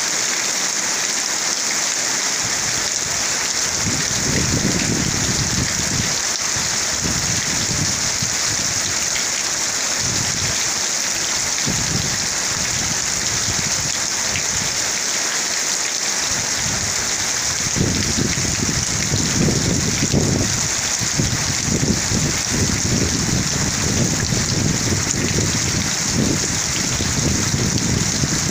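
Heavy rain pouring down during a thunderstorm, a steady dense hiss. Low rumbling swells come in about four seconds in and again from about eighteen seconds on.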